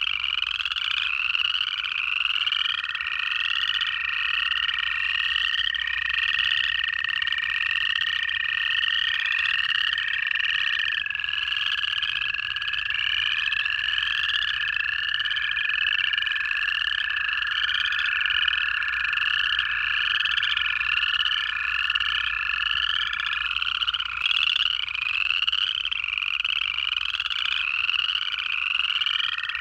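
A chorus of upland chorus frogs, their rising trilled calls overlapping continuously. Under them, American toads give long, steady, level trills, several seconds each.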